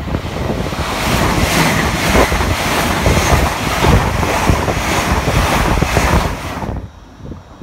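LNER Azuma high-speed passenger train passing close at speed: a loud, steady rush of wheel and air noise that drops away sharply near the end as the train clears.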